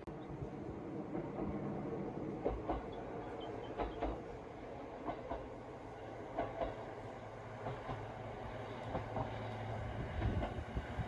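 Local railway train running, with a steady low hum and irregular clacks from the wheels over the rail joints.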